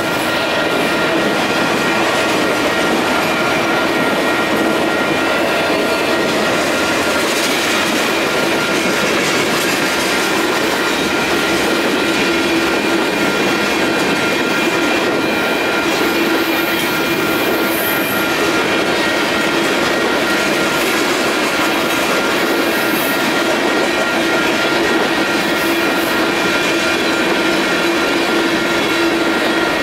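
Freight cars of a Union Pacific manifest train rolling steadily past: continuous wheel-on-rail noise with a few steady high tones running through it.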